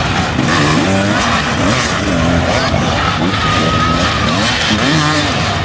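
Several motorcycle engines racing on a track, their revs rising and falling over one another as the bikes go through the gears and corners.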